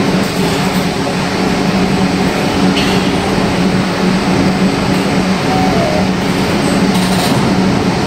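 Light-rail train standing at an underground platform, its onboard equipment giving a loud, steady hum with a low drone.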